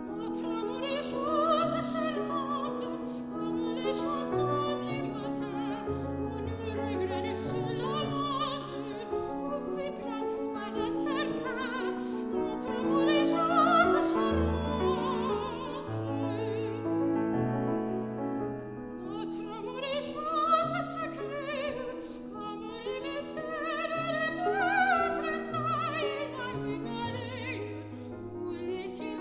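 A classical soprano singing an art song with vibrato, accompanied by piano.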